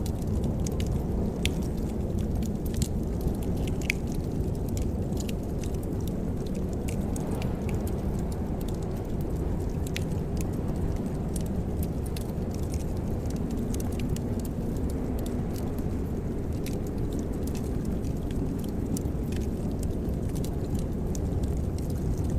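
Wood fire crackling in a fireplace: scattered small pops and snaps over a steady low rush.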